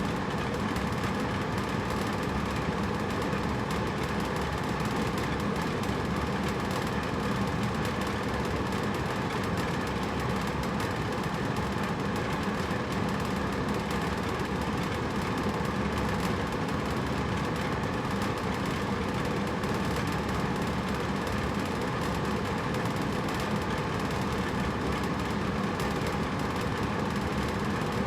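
Hotel room air conditioner running: a steady, even hum of fan air and motor that does not change.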